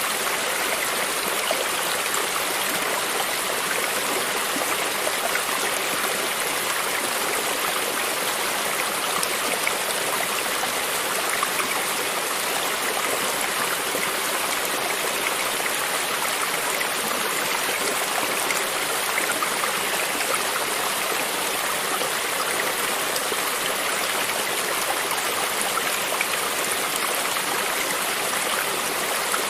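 Small creek running steadily over stones: continuous babbling and splashing of flowing water, with fine trickles and gurgles throughout.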